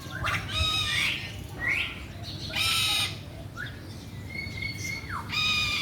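Captive park birds calling: a series of about six short, shrill calls, each under half a second, some sliding down in pitch.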